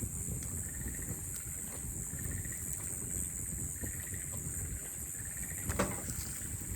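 Campfire burning with a low rumble and small crackles, and one louder snap about six seconds in. Insects chirp in short repeated bursts over a steady high insect drone.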